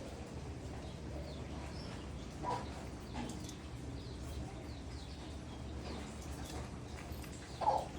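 Pigeons in a loft, with faint short chirps and two brief louder sounds, one about two and a half seconds in and one near the end, over a steady low hum.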